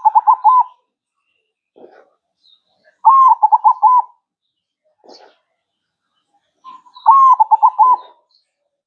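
Zebra dove (perkutut) cooing: one phrase already under way at the start, then two more about four seconds apart. Each phrase is a longer opening note followed by a quick run of four or five short coos.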